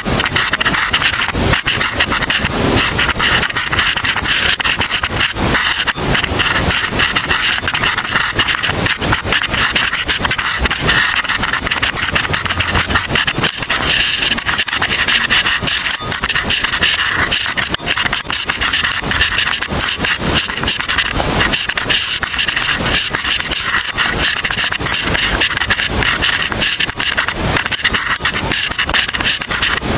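Continuous scratching of writing on paper, a dense run of quick irregular strokes at a steady level.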